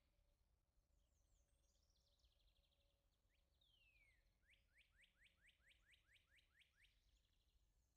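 Faint birdsong: some high twittering, then a falling whistle about three and a half seconds in, followed by a run of about ten quick rising notes at about four a second.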